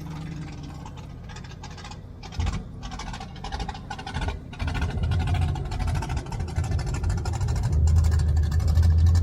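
A car engine rumbling, growing louder from about halfway through and loudest near the end, with a noisy hiss over it.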